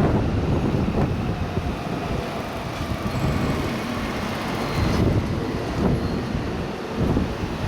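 Strong wind gusting over the microphone, a rough low rumble that swells and eases every second or two.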